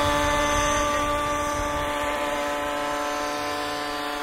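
Radio-controlled 1/6-scale Bell 47G-II model helicopter in flight, its motor and rotors making a steady whine at a nearly constant pitch that grows a little fainter.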